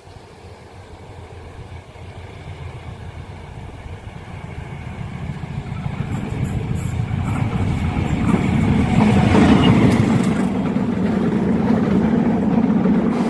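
Diesel train approaching, its engine rumble growing steadily louder and levelling off at full loudness about nine seconds in.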